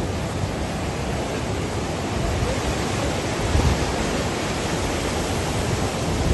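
Steady rush of hurricane wind and surf, with wind buffeting the microphone, swelling briefly about halfway through.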